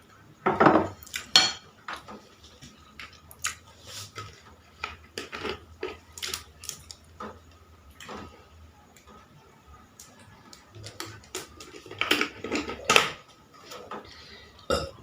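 Dishes and cutlery clinking and knocking in irregular taps, with louder clusters about half a second in and again near the end.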